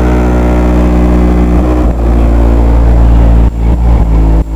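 Car audio subwoofers playing a very loud, steady low bass tone for about three and a half seconds, then breaking into shorter bass pulses, loud enough to overload the recording.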